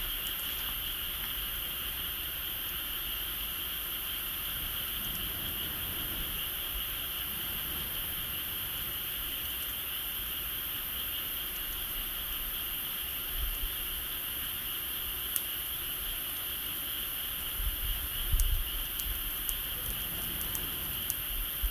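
Steady, high-pitched chorus of insects in two unbroken bands, with a few sharp clicks and low thumps in the last several seconds.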